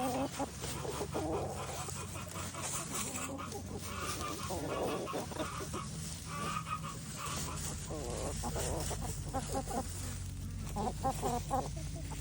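Chickens clucking, with short calls coming one after another and quick runs of clucks in the second half.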